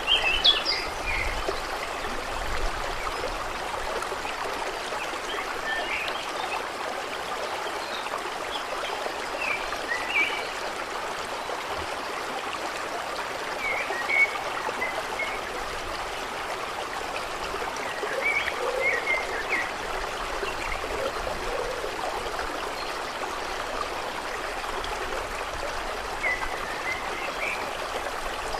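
Steady sound of running water, with short bird chirps now and then.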